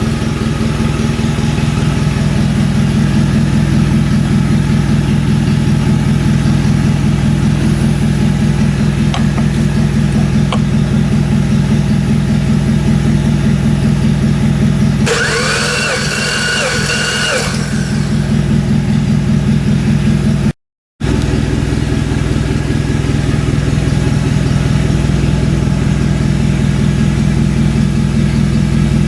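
Subaru EZ30 3.0-litre flat-six engine running at a steady idle. About halfway through, a higher-pitched noise with a wavering pitch sits over it for about two seconds, and the sound cuts out briefly about two-thirds of the way in.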